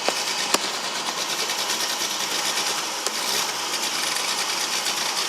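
A vehicle engine idling with a fast, even rattling pulse, with two sharp clicks in the first half-second.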